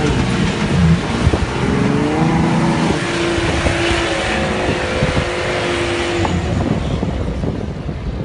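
Jeep Wrangler engine revving hard, its pitch climbing about two seconds in and holding steady for a few seconds before easing off near the end, over a loud rushing noise.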